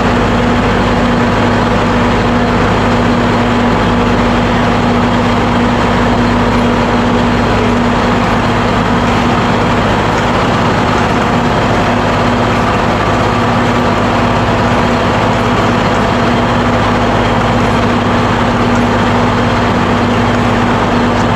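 Steady engine-room machinery noise aboard a ship: a continuous loud drone with a constant low hum, unchanging throughout.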